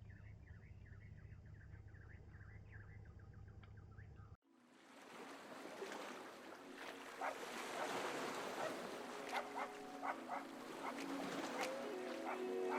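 A small bird chirping in quick repeated notes, then a sudden cut to a louder steady rushing noise with scattered clicks; held tones come in near the end.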